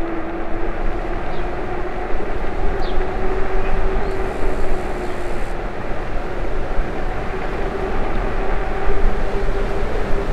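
ENGWE E26 fat-tyre e-bike riding along: a steady rumble of the fat tyres on the road and wind on the microphone, with a steady hum whose pitch drifts slightly.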